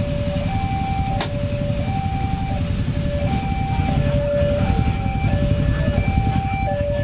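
Railway level-crossing warning alarm sounding its two-tone signal, a lower and a higher note alternating about every two-thirds of a second, over a steady low rumble of vehicles. A single sharp click about a second in.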